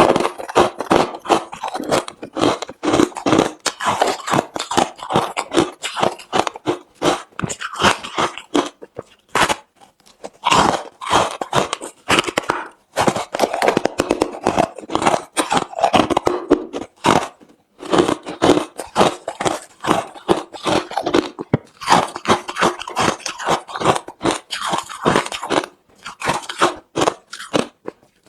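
Close-miked chewing of hard refrozen crushed ice: rapid, irregular loud crunching and crackling bites, broken by a few short pauses.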